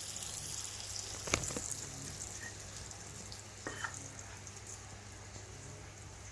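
Sizzling on the hot plates of a waffle iron, a steady hiss that slowly dies down, with two light knocks, one about a second and a half in and one near the middle.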